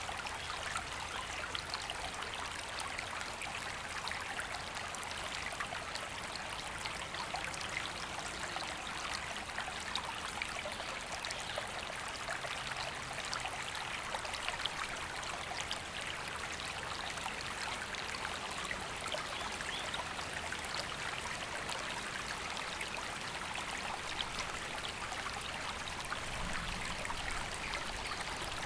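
River water running steadily, an even rushing and babbling that does not change.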